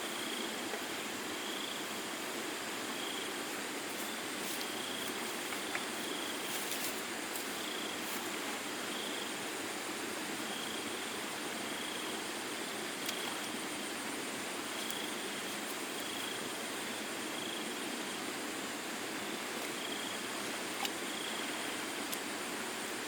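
Steady outdoor hiss with faint short high chirps recurring every second or so, and a few light clicks.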